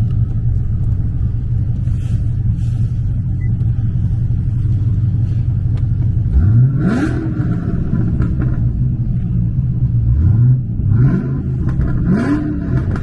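Cadillac V-series car's engine and freshly reworked exhaust under way: a steady low drone, then the engine revs up about six seconds in and twice more near the end, each time rising in pitch as it accelerates.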